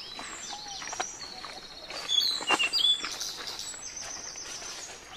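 Birds chirping: many short, high whistled notes and quick falling chirps, loudest in a burst about two seconds in.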